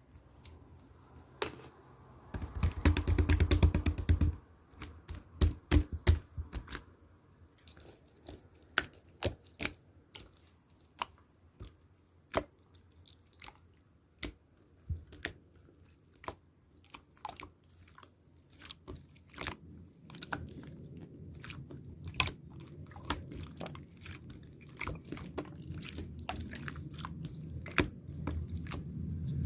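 Slime being squeezed and poked by hand: sticky squelching with sharp clicking pops of trapped air, a dense run of clicks about three seconds in, then scattered single clicks, and a steadier squishing from about twenty seconds in.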